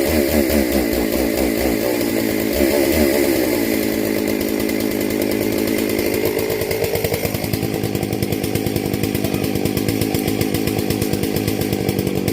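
Dolmar chainsaw running and cutting, its engine speed dropping under load and then rising again about seven seconds in.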